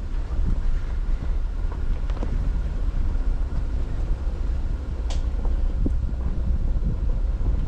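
Jeep crawling slowly over a washed-out sand-rock road: a steady low rumble with wind buffeting the microphone, and scattered small knocks and clatters along the way.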